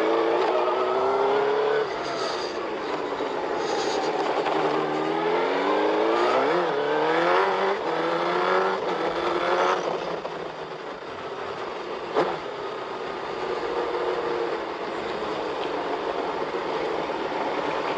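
Sport motorcycle engine running under way, its pitch rising and falling with the throttle and gear changes through the first half, then lower and steadier. A short sharp click comes about twelve seconds in.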